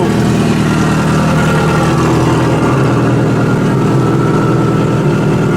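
Turbocharged Subaru EJ25 2.5-litre flat-four engine of a Mk1 Ford Fiesta drag car idling steadily while still cold from its warm-up.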